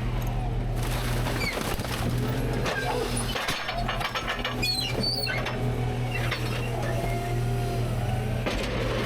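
Rear-load garbage truck's engine running steadily, with a dense run of cracking and clattering from the trash in the hopper through the middle seconds, and a few short squeaks.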